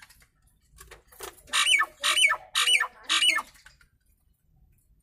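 Jalak nias (myna) giving four loud, harsh squawking calls in quick succession, each with a bending, partly whistled pitch.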